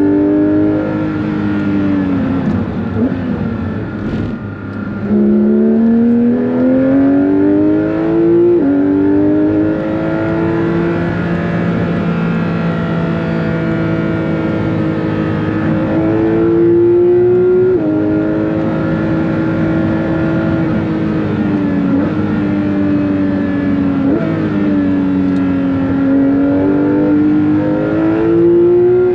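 Porsche 911 GT3 (992.2) naturally aspirated 4.0-litre flat-six under hard acceleration, its pitch climbing through each gear and stepping down at each upshift, several times over. Around 3 to 5 seconds in, the revs fall away as the car slows, then it pulls hard again.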